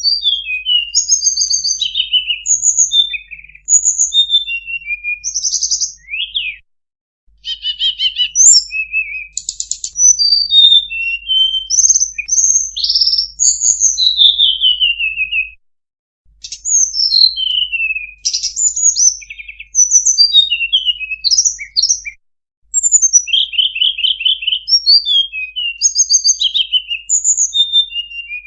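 Tledekan (blue flycatcher) song played as a lure recording: rapid, varied high whistles, downslurred sweeps and short trills, in long phrases broken by brief pauses.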